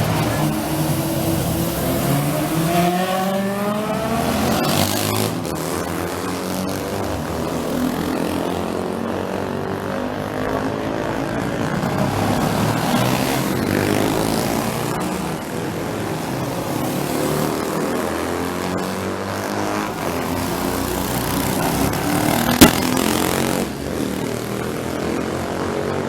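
Several racing motorcycle engines running and revving together, one climbing steadily in pitch a few seconds in as it accelerates. A single sharp crack, the loudest sound, comes about three-quarters of the way through.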